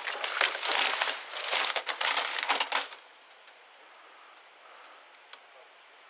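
Dry weeds and brush crackling and crunching as someone pushes through them on foot, loud for about three seconds and then stopping abruptly, leaving faint rustles and a few small clicks.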